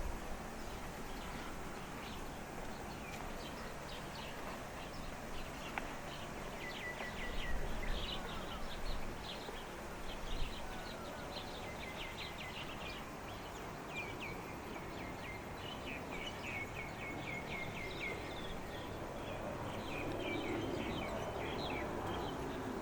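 Small birds chirping and singing in quick trills of short, high repeated notes, over a steady low outdoor background rumble. A few low thumps come about a third of the way in.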